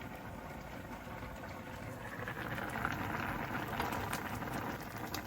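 Pot of tomato soup bubbling at a boil, a steady fine crackling that grows a little louder about two seconds in.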